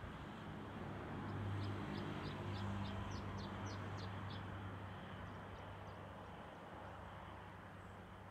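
A bird calling in a quick run of short, high chirps, about four a second, which grow fainter and stop after about six seconds. Under it a low hum swells for a few seconds over a steady outdoor background noise.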